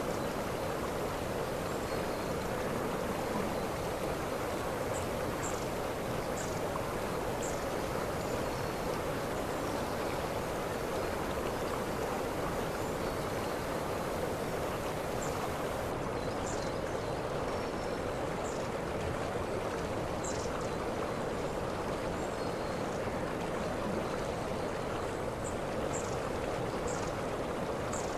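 Waterfall water rushing in a steady, even roar, with short high chirps now and then.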